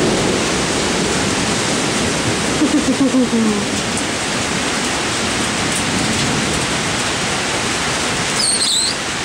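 Torrential rain pouring down, a loud steady hiss.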